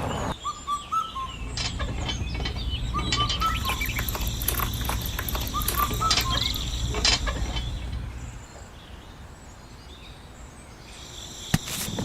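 Small birds chirping in short, repeated phrases over a low steady hum that fades out about eight seconds in, with scattered clicks.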